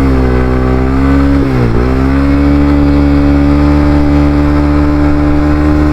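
Honda CBR300R single-cylinder engine running under way, its revs dipping sharply about a second and a half in and then climbing back. It sounds horrible: the bike has been acting up and is on its way to the shop for repair.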